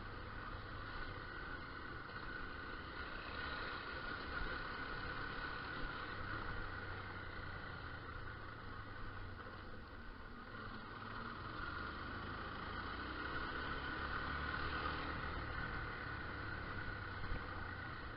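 Motorcycle engine running steadily while riding, heard through the rider's microphone with wind noise, the level dipping a little midway and rising again.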